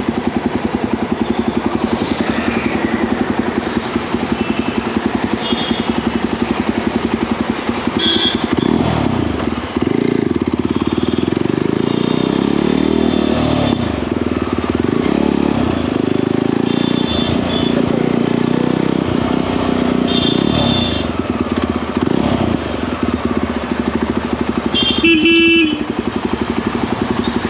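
Motorcycle engine running on the move, its pitch rising and falling repeatedly as it accelerates and shifts, with a few short horn toots and a louder horn blast near the end.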